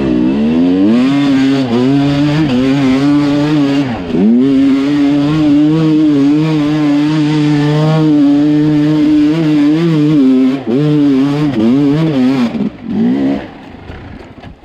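Sherco two-stroke enduro dirt bike engine under load, revving up, easing off sharply about four seconds in and pulling hard again. It holds high revs with small throttle wobbles, then drops away and fades near the end.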